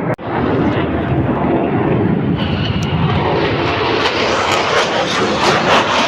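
F-35 fighter's F135 turbofan engine running, a steady jet rumble that takes on a brighter, hissier edge a little over two seconds in. The sound breaks off abruptly just after the start and again at the end.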